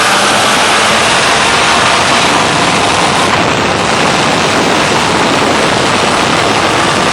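A car running flat out at high speed: a loud, steady rushing noise of engine, exhaust and wind with no clear engine note.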